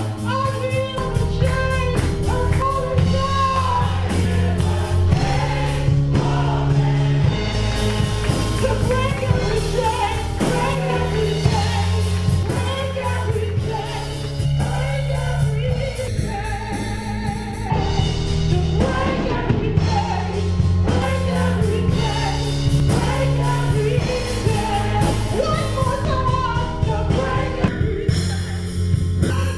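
Live gospel music: singing over a band with a steady bass line.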